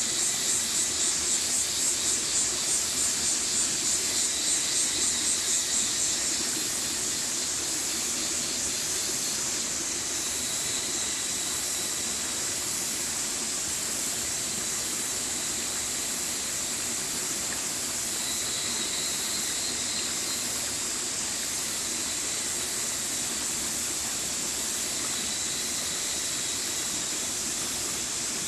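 Mountain stream running steadily. For about the first six seconds a high-pitched sound pulses over it about three times a second, then it settles into a steady high hiss.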